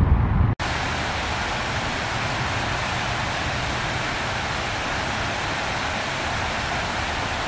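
A low rumble cut off abruptly about half a second in, then a steady, even rushing hiss of water.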